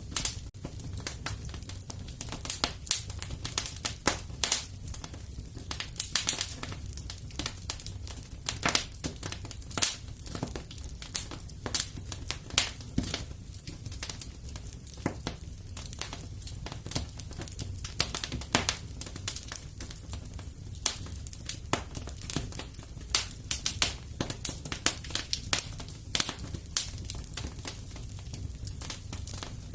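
Wood fire in a fireplace crackling, with irregular sharp pops, some louder than others, over a low steady rumble.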